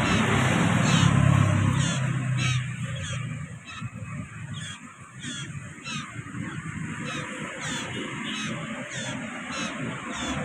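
Common iora (sirtu, cipoh) calling: a steady series of short, high chirps, about two a second. A low hum sits under the first couple of seconds.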